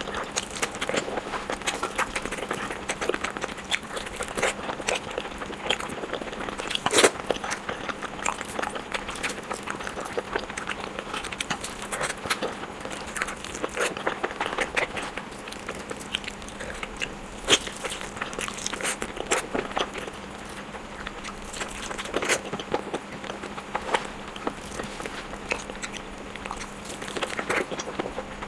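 Close-miked eating of sunny-side-up fried eggs: continuous biting and chewing with wet, crackling clicks, and a few sharper, louder bites, the loudest about seven seconds in.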